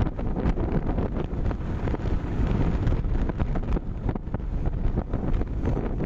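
Wind buffeting the microphone on a moving motorcycle, over a steady rush of engine and road noise.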